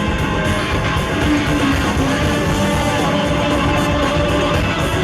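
A live funk and soul band playing loudly, with electric guitar prominent among held and sliding notes over a full rhythm section.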